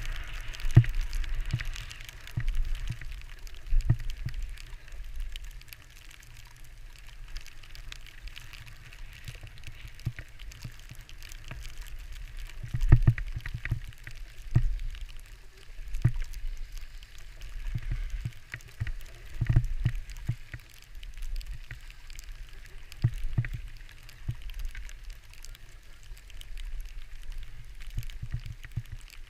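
Wind buffeting a moving camera's microphone in irregular low gusts while skiing, over a faint hiss and crackle of skis sliding on snow.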